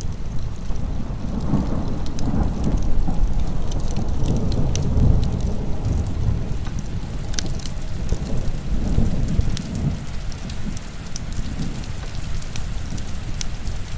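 Heavy rain with a low rolling rumble of thunder that swells a second or two in and dies away about ten seconds in. Sharp crackles from a wood fire pop throughout.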